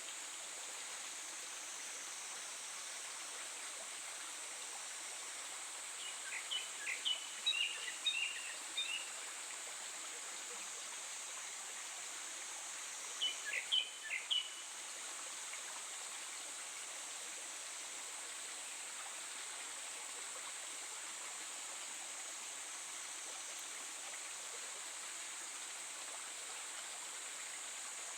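Japanese thrush singing two short phrases of quick, varied whistled notes, the first about six seconds in and the second about thirteen seconds in, over a steady hiss of running water.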